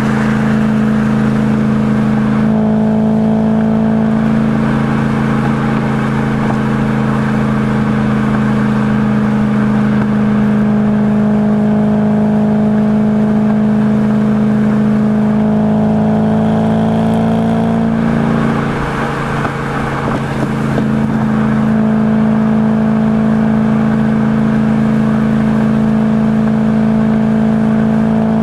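B7 Audi S4's 4.2-litre V8 running through a Stasis exhaust with the piggy resonators kept, holding a steady drone at constant revs. The level dips briefly about two-thirds of the way through, then the drone resumes.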